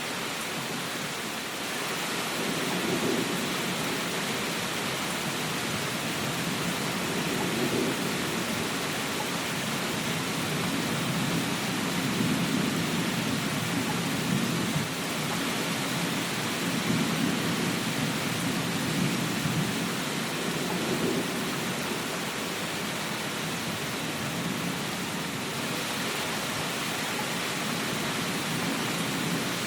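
Steady rain, a dense even hiss, with low rolling rumbles that swell and fade every few seconds.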